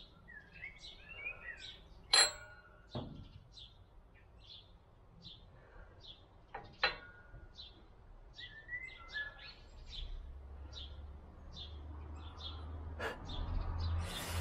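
A small bird chirping a short high note over and over, about twice a second, with a warbling call near the start. A few sharp metal clinks as small steel crankshaft parts are handled, the loudest about two seconds in, and a low hum that comes in about ten seconds in.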